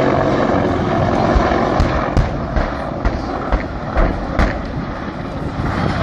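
Aircraft engine noise running steadily, with a string of about seven sharp thumps between two and four and a half seconds in.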